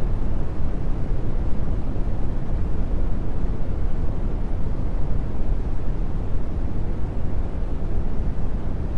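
Steady brown noise: an even, deep rumbling hiss, strongest in the bass and fading toward the treble. Any affirmations beneath it are too low to be heard.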